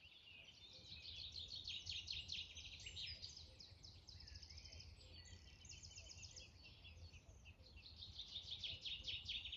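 Several small birds chirping and singing over one another, with rapid trills, over a low steady rumble.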